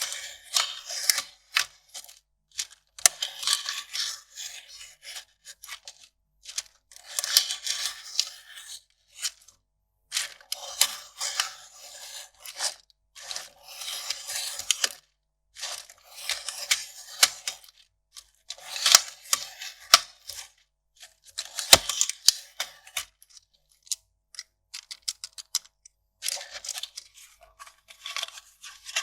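Kraft paper being worked by hand for its sound: a run of papery rustling and tearing bouts, each a second or two long with short pauses between them, and a few sharp clicks.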